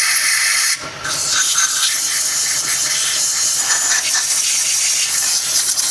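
Compressed-air blow gun on an airline blasting dirt and debris out from around a car engine: a loud, steady hiss that stops briefly just under a second in, then starts again and holds.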